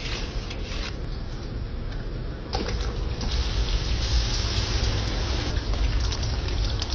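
Food frying in hot oil: a steady sizzling hiss that gets louder about two and a half seconds in.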